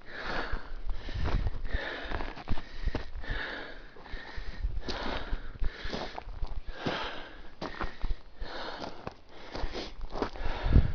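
A hiker's heavy breathing, huffing and puffing about once a second while climbing a steep slope, with a few footsteps on loose dirt.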